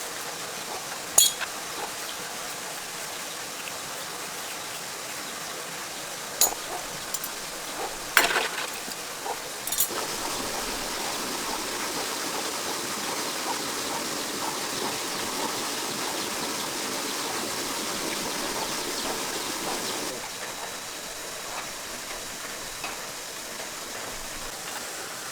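Steady hiss of rain falling, swelling a little partway through and easing about twenty seconds in. A few sharp metallic clinks from tool work on the tractor come in the first ten seconds.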